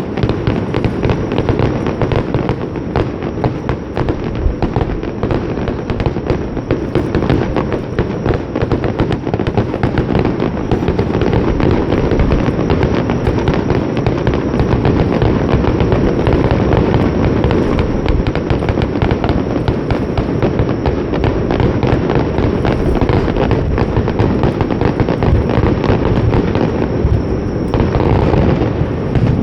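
Aerial fireworks going off in a dense barrage: many shell bursts and crackles coming so close together that they merge into a continuous loud din.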